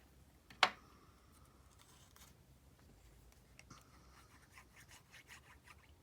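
Edges of a paper tag being inked: soft, intermittent rubbing and scratching on paper, after a single sharp click a little over half a second in.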